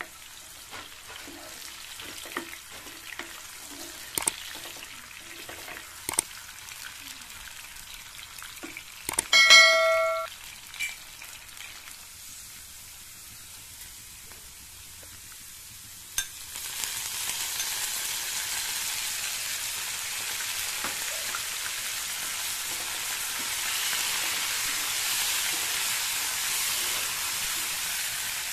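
Diced capsicum frying in oil in a nonstick wok, a spatula stirring and scraping in regular strokes. About nine seconds in there is a short metallic ring, the loudest sound. Chopped greens then go into the hot oil and the sizzle grows louder and steady.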